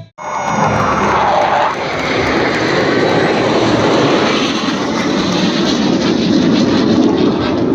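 Aircraft engine noise from display planes flying overhead: a loud, steady rushing sound that starts abruptly.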